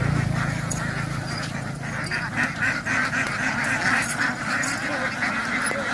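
A flock of domestic ducks quacking, many calls overlapping into a continuous din, with a low hum fading out in the first second.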